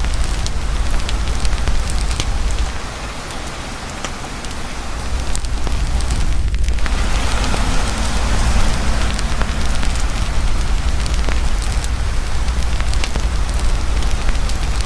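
Campfire crackling in heavy rain: a steady rain hiss with many sharp pops and snaps from the fire, over a constant low rumble. The whole sound drops in level for a couple of seconds a few seconds in, then comes back up.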